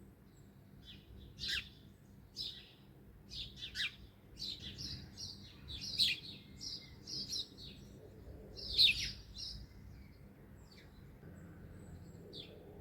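Songbirds chirping and calling: short, sharp chirps, some sweeping down in pitch. They come thickest through the middle, with the loudest about halfway through, then thin out toward the end.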